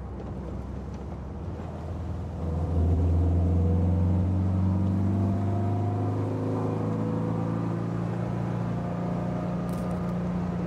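Chesil Speedster's rear-mounted 1600cc air-cooled Volkswagen Beetle flat-four engine pulling the car along, heard from the open cockpit. It gets louder about two and a half seconds in as it comes under load, then runs steadily.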